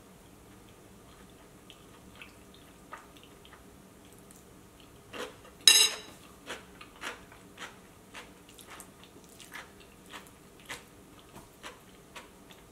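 A person chewing a mouthful of curry rice: faint, irregular wet clicks and smacks. About six seconds in comes one sharp clink, the loudest sound, which is a metal spoon being set down in a ceramic bowl.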